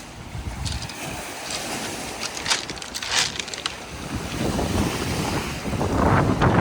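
Wind gusting on the microphone over the noise of boats and water, with two short crackles around the middle and gusts growing louder near the end.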